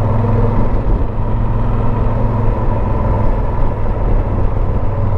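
Motorcycle engine running steadily at low road speed, heard from the rider's helmet camera.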